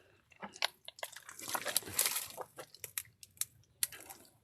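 Wet tidal mud squelching and sucking while someone digs at a mud crab burrow, with a scatter of sharp clicks and short wet smacks.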